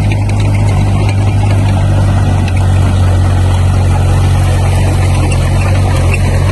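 Diesel engine of heavy earthmoving equipment running steadily at one speed, a loud low drone.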